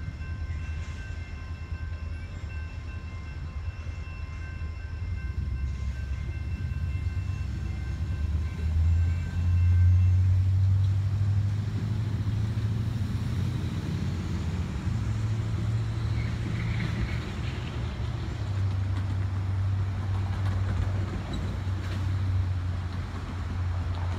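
Low, steady rumble of a train, swelling about ten seconds in, with a few faint high steady tones that fade out partway through.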